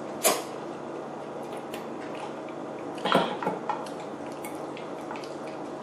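Eating utensils clicking against a bowl of ramen noodles: one sharp click just after the start, a short cluster of clinks about three seconds in, and faint scattered ticks between.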